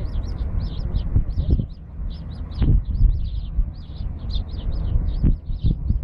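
A bird chirping: short high calls repeated rapidly, about four or five a second, without a break. Underneath runs a low rumble with a few dull thumps, loudest about three seconds in.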